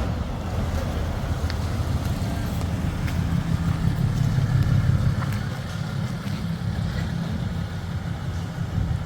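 A vehicle engine idling with a steady low rumble, swelling a little about halfway through.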